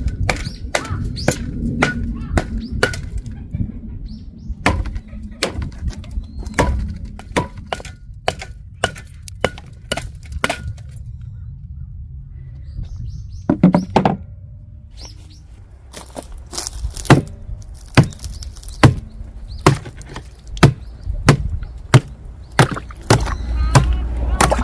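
Firewood being handled: a run of sharp, irregular wooden knocks and clatters, at times about two a second, with a short lull about halfway through.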